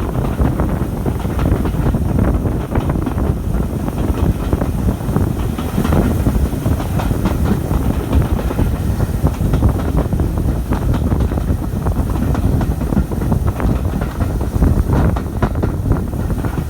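Railway carriage running along the line behind a steam locomotive: a steady rumble of wheels on rail with frequent small clicks and rattles.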